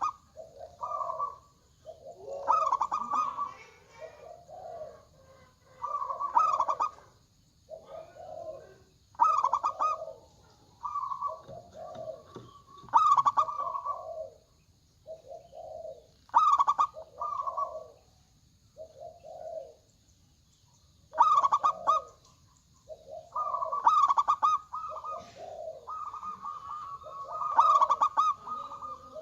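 Zebra doves (perkutut) cooing: bursts of quick staccato coos every three to four seconds, with phrases overlapping and running together near the end as birds answer one another.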